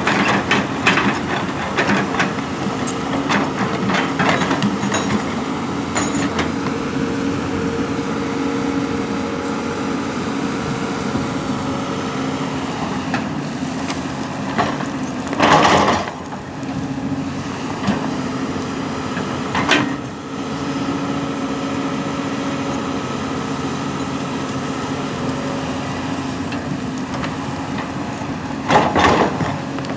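A heavy earthmoving machine's engine running steadily, with clanks and knocks in the first few seconds. Louder bangs come about halfway through, again a few seconds later, and near the end.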